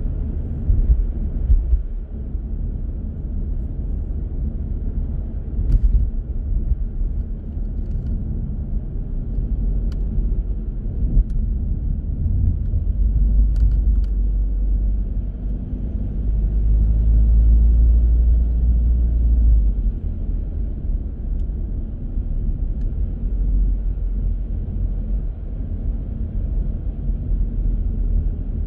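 Car driving through city streets: a steady low rumble of engine and road noise, which swells louder for a few seconds about two-thirds of the way through.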